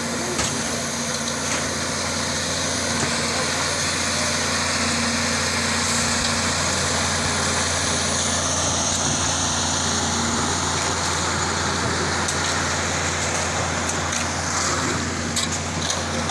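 ABJZ40C concrete mixer pump's engine running steadily while mixing and pumping concrete, a constant drone with a few faint knocks.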